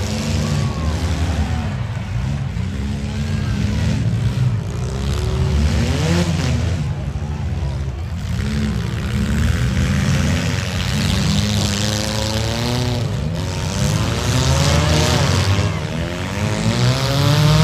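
Demolition derby compact cars' engines revving, their pitch rising and falling over and over.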